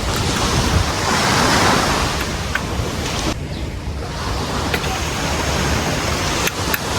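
Ocean surf washing on the shore, with wind rumbling on the microphone; the wash swells about a second in and its hiss drops away suddenly a little after three seconds.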